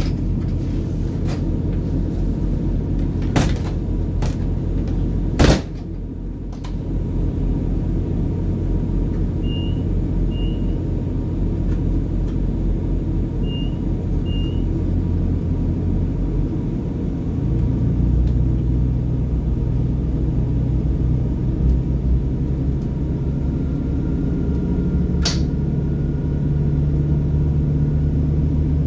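Class 180 Adelante diesel multiple unit's underfloor Cummins diesel engine heard from the carriage directly above it, running with a steady low hum; a little over halfway through its note shifts and grows louder as it powers up to pull away. A sharp knock comes early on the way through, and two pairs of short high beeps sound in the middle.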